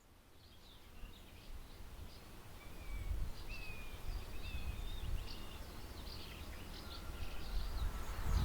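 Birds chirping and calling in many short notes and little rising and falling whistles over a low rumble, fading in from silence.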